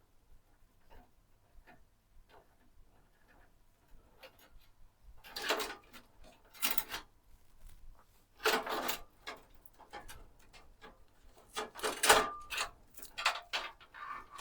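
Irregular rubbing, scraping and clattering of computer parts being handled, in several short bursts that grow busier in the second half, with a brief squeak near the loudest knock.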